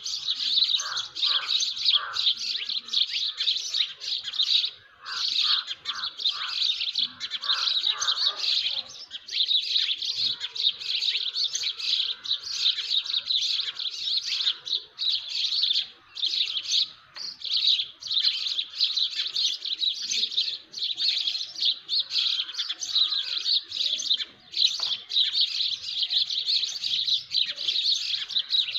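Morning chorus of many small birds chirping densely and without pause, high and busy, with lower calls mixed in now and then.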